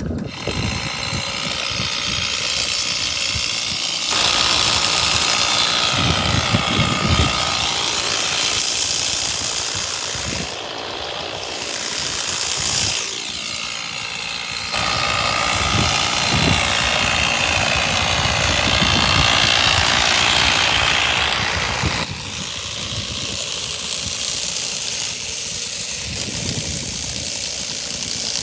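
Construction machinery engine running continuously, its sound changing abruptly a few times.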